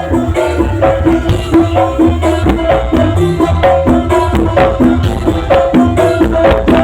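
Loud music blasted from a large carnival sound system, with heavy bass, a repeating melody and busy hand-drum percussion.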